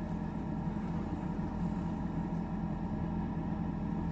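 Steady low hum of the Kings 75 L dual-zone 12 V fridge's compressor running.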